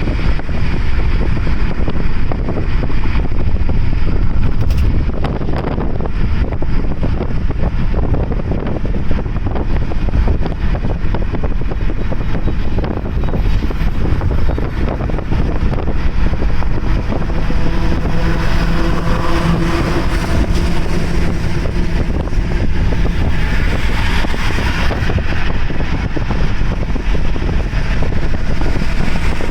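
Car driving at speed: a steady low road-and-engine rumble with wind buffeting the microphone. Around two-thirds of the way through, a steady pitched hum rises over it for a few seconds.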